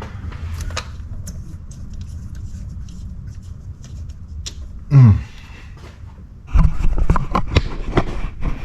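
Hand tools and parts being handled in a workshop: scattered clicks, one short falling-pitch sound about five seconds in, then a dense clatter of knocks and rattles near the end, over a steady low hum.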